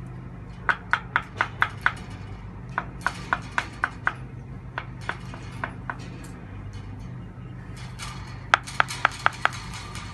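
Runs of sharp taps or clicks, five to seven at a time at about four or five a second, several runs in a row, over a steady low hum.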